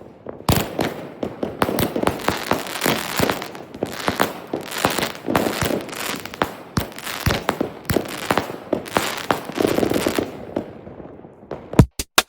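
Fireworks going off in quick succession: a dense string of sharp bangs and crackles that dies away about ten and a half seconds in.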